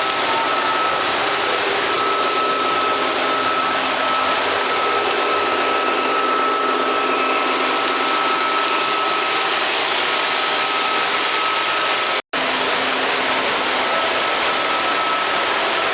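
Miniature model trains running on their track layout: a steady mechanical running noise with a thin, high steady whine. The sound cuts out for an instant about twelve seconds in.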